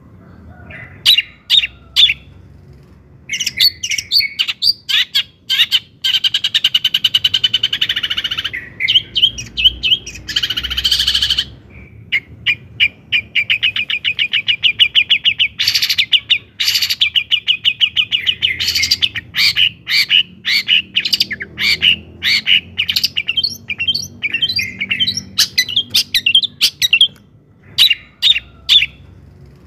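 Long-tailed shrike singing a fast chattering song of short sharp notes. It includes long rapid rattling trills, and a couple of harsh rasping calls come about ten and sixteen seconds in.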